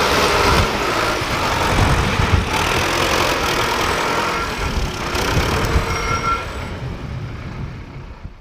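Sonalika 750 DI RX tractor's diesel engine running, with rough, heavy low-end noise, fading out near the end.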